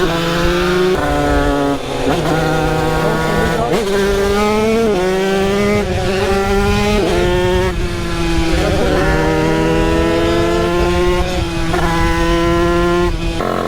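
50cc motorbike engine pulling hard, its pitch climbing and then dropping sharply at each gear change, about six times over.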